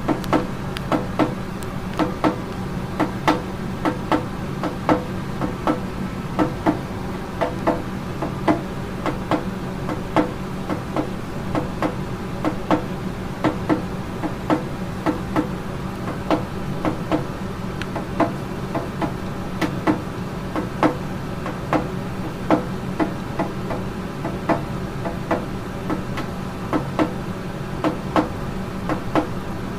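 Cockatiel pounding its beak against something hard in a head-banging display: sharp knocks, one or two a second in an uneven rhythm, over a steady low hum.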